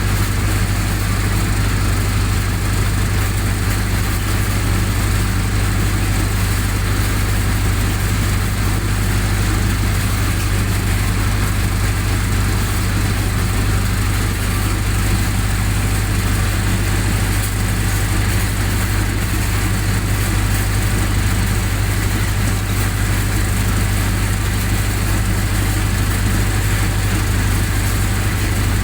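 Generator set's engine running steadily at a constant speed, with a heavy low hum and no change in pitch or level.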